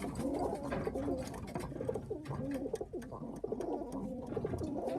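Racing pigeons cooing in the loft: repeated, overlapping low cooing calls from several birds, with faint light clicks among them.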